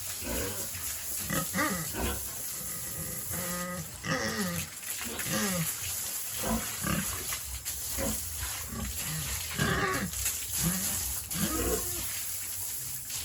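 Domestic pigs grunting and squealing: many short calls from several animals, some rising and some falling in pitch, coming one or two a second and sometimes overlapping.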